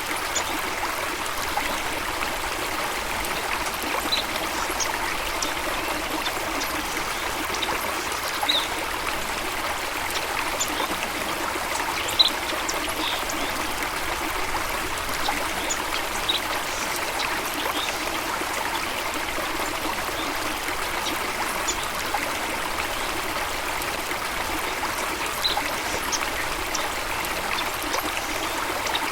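Steady rush of a stream or small waterfall, with brief high bird chirps scattered through it every few seconds.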